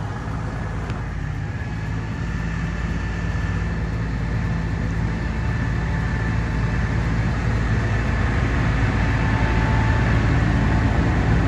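Tractor engine running steadily under way, a low even hum that grows slowly louder.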